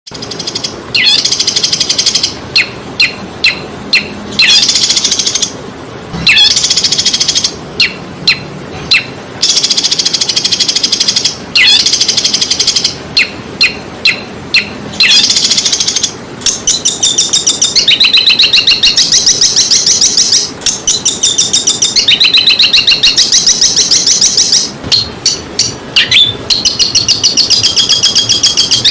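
A songbird singing loudly: clusters of sharp, downward-sweeping chips alternating with high trills, turning about halfway into an almost unbroken, very fast rattling trill.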